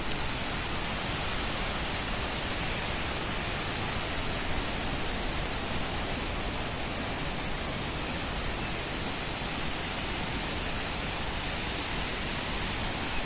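Fast-running water, a steady even rush with no break or change.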